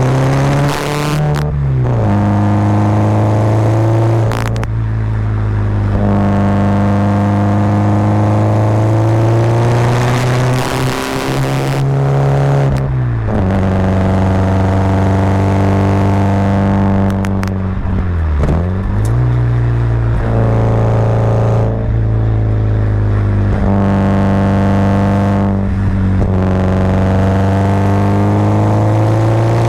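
Subaru Impreza WRX's turbocharged flat-four engine pulling uphill, heard from inside the car. The engine note holds steady for long stretches and drops sharply, then picks back up, a few times: about a second in, around 13 seconds and around 18 seconds. A few short clicks sound in between.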